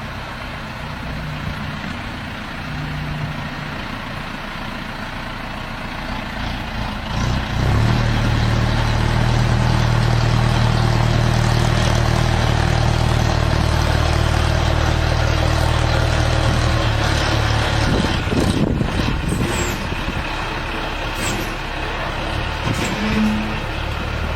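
Heavy 6x6 truck engine running. Its note steps up and gets louder about seven seconds in, holds steady under load, then eases off, with a few knocks near the end.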